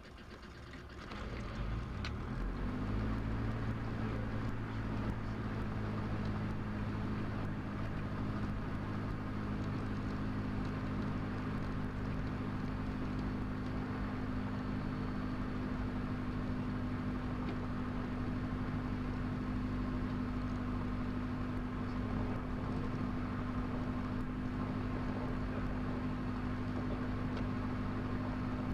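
Diesel Cessna 172 engine starting: it catches and spins up over about two seconds, then settles into a steady idle, heard from inside the cockpit.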